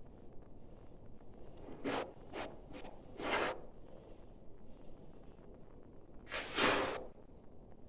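A few short scraping, rubbing sounds, then a longer and louder one near the end, as stiff pieces of the stove's burn chamber are slid and fitted into place.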